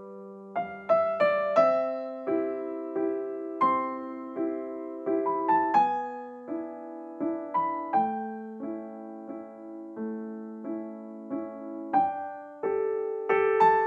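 Background piano music: a gentle melody of plucked-sounding notes over held chords at an even, unhurried pace.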